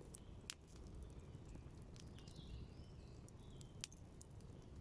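Quiet wood campfire with two sharp crackling pops, about half a second in and near the end, over a low steady rumble, with faint bird chirps.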